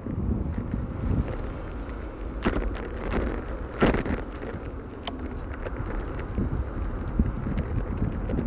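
Wind rumble on the microphone and road noise during a bicycle ride, with two short knocks about two and a half and four seconds in.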